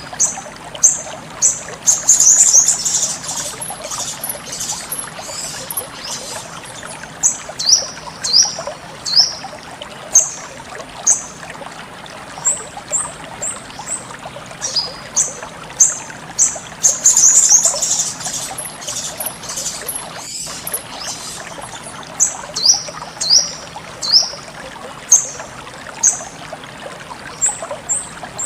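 Sogon bird singing: short high chirps, many dropping quickly in pitch, repeated every second or so, with bursts of rapid twittering about two seconds in and again around seventeen seconds. Steady trickling water runs underneath.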